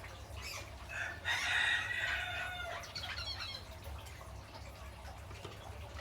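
A parrot giving a loud, harsh screech of about a second and a half, starting about a second in, followed by a few shorter chattering notes.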